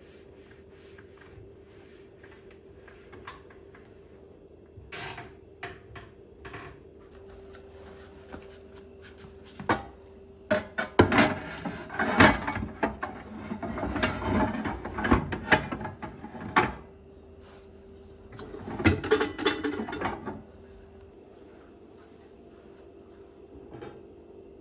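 Household objects being handled: scattered clicks and knocks, then two stretches of busy clattering and rattling, the first lasting several seconds, over a steady faint hum.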